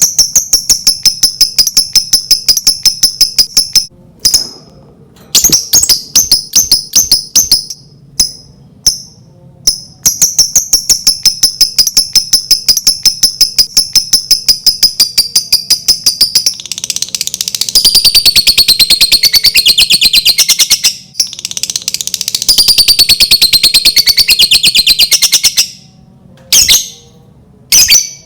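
Lovebird chattering in long runs of rapid, high-pitched repeated notes, several a second, with short breaks. A denser, louder stretch of chatter comes about two thirds of the way in. This is the long 'ngekek' chatter used as a bait call to set other lovebirds singing.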